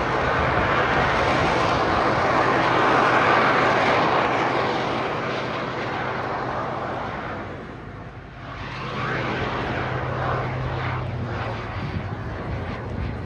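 Jet Pitts aerobatic biplane, a Pitts Special fitted with two additional jet turbines, flying its display with its engines running. A loud rush of engine noise swells to a peak about three seconds in, fades away by about eight seconds, then returns more faintly as the aircraft comes round again.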